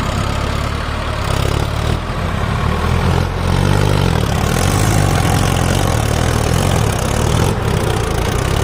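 Tractor diesel engine running. It revs up about a second in and holds at higher revs.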